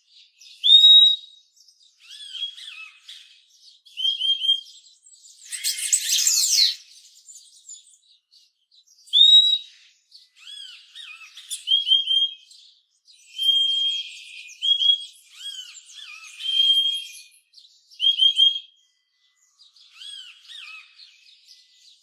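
Purple-throated euphonia giving short, clear whistled call notes, single or doubled, every second or two. A loud harsh burst comes about six seconds in, and faint twittering of other birds runs underneath.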